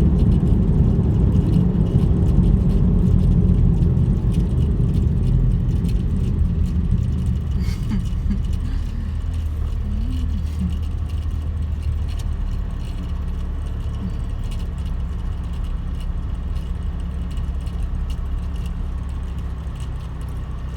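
Car driving, heard from inside the cabin: a steady low rumble of engine and road noise that eases slightly after about five seconds.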